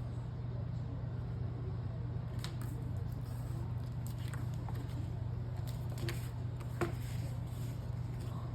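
A few soft clicks and light handling noises from paper journal pages, over a steady low hum.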